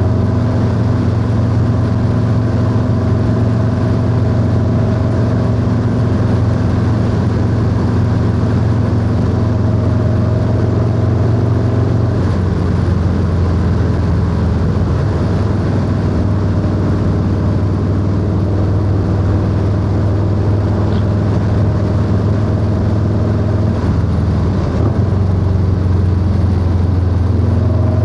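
Harley-Davidson Low Rider S V-twin running through a 2-into-1 exhaust while riding at road speed. The engine note holds steady, then shifts pitch about twelve seconds in and again near the end.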